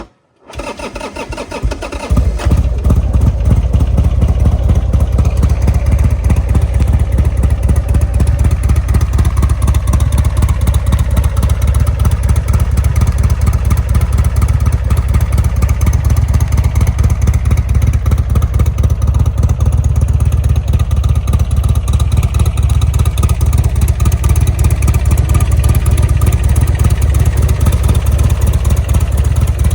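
2004 Buell XB12S Lightning's 1203 cc air-cooled V-twin being started: the starter cranks briefly, the engine catches about two seconds in, then runs steadily at a loud, pulsing idle.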